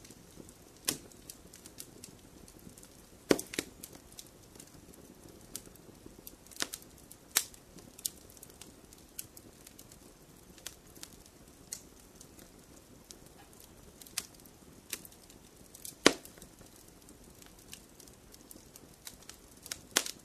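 Wood fire crackling: burning logs giving irregular sharp pops and snaps over a soft steady hiss, with the sharpest pops about three seconds in and about sixteen seconds in.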